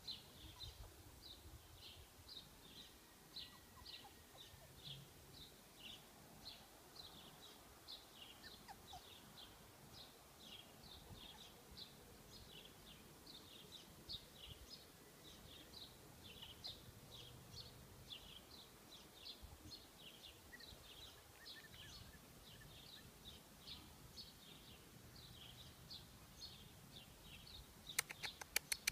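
Faint, repeated chirping of a small bird: short high chirps at about two a second over a quiet background. A few sharp clicks come near the end.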